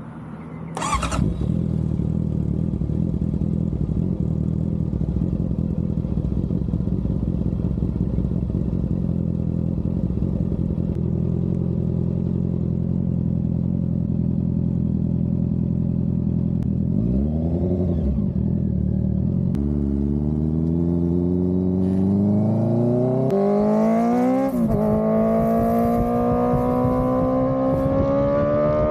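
Honda CBR650R's inline-four through an aftermarket Dominator exhaust catching with a sharp burst about a second in, then idling steadily. Past the middle it blips once, then pulls away, the pitch rising through the gears with a drop at a gear change.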